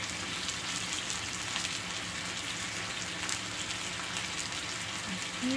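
Chicken wings frying in oil in a frying pan, a steady sizzling hiss with fine crackle as they brown.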